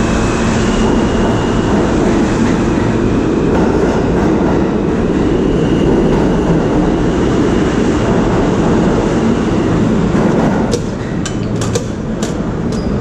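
New York City subway train running on the track, heard from inside the car: a loud, steady rumble and rattle of wheels and carriage. About eleven seconds in it eases a little and a run of sharp clicks follows.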